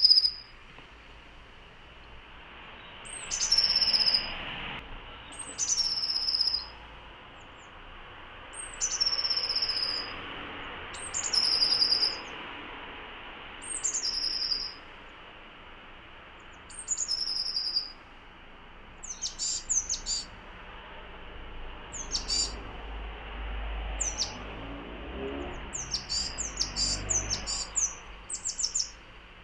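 Tits (small songbirds of the tit family) calling: a high two-note call that drops to a lower held note, repeated about every two to three seconds. From about two-thirds of the way in, bursts of short, quick chirps.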